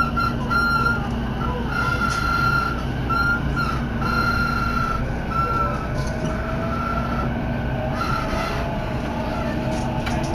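Electric commuter train pulling away from a station, heard from inside the carriage. Under a steady rumble, the traction motors' whine climbs steadily in pitch from about halfway through as the train gathers speed, and a high tone comes and goes for much of the time.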